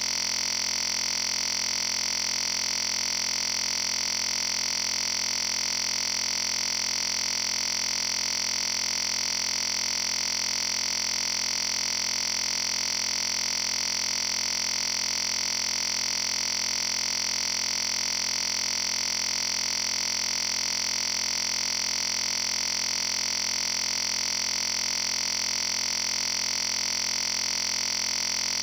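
A steady, unchanging electronic tone: a high whine layered over a fixed set of lower tones, holding exactly the same level without a break.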